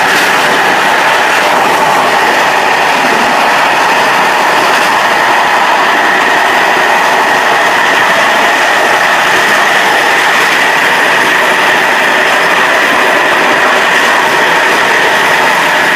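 Czech passenger train running steadily at speed, heard from the rear of the last coach: a continuous rumble of wheels on rail.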